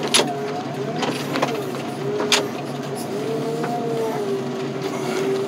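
A loader's engine running with a steady drone that wavers slightly in pitch, with a few sharp metallic clanks and rattles.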